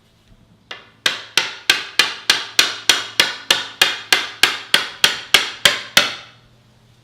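A hammer striking steadily, about three blows a second: a light first tap, then some seventeen sharp blows that stop after about six seconds.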